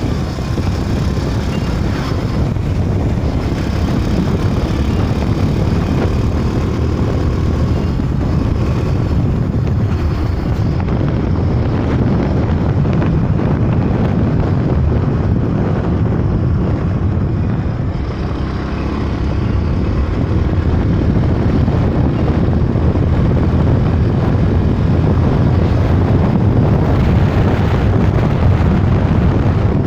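Loud, steady rush of wind over the microphone while riding a bike, strongest in the low range, easing briefly about eighteen seconds in.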